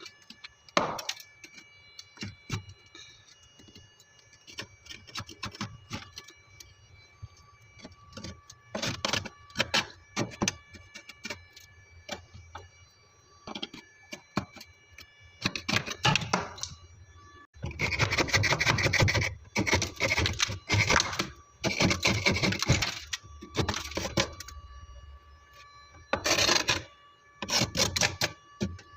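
Freezer frost and ice chunks being scraped, cracked and crunched: scattered sharp cracks and scratchy bursts, with a dense run of them a little past the middle.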